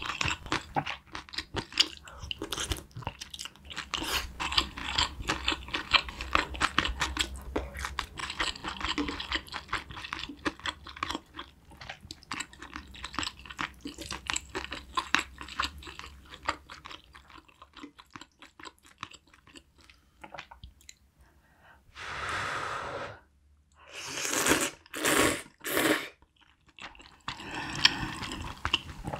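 Close-miked chewing of spicy braised chicken and glass noodles: a dense run of wet, crunchy mouth clicks. About two-thirds of the way through the chewing stops for a few short breathy sounds, then resumes near the end.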